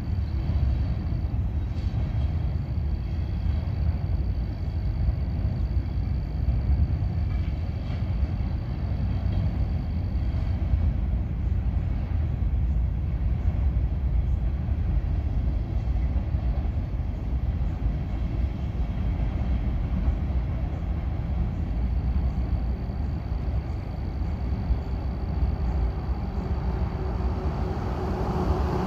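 Steady low rumble of a running vehicle, with a faint high whine in the first third and again near the end.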